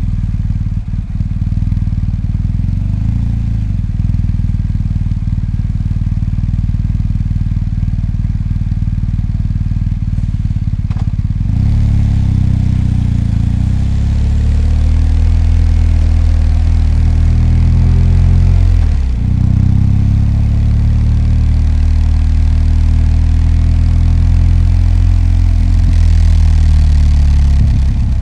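BMW R1250GS boxer-twin engine idling with a steady low pulse, then pulling away about eleven seconds in, rising in pitch. It drops briefly near the 19-second mark, as at a gear change, and then runs on steadily under way.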